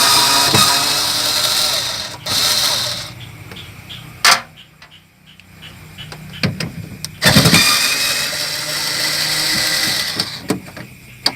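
Power drill-driver running in bursts as screws are backed out of a refrigerator's casing: a run of about three seconds at the start, a brief pause, then another run from about seven to ten seconds in. A single sharp click comes just after four seconds in.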